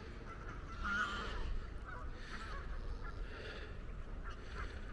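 Geese honking faintly, several calls, the clearest about a second in.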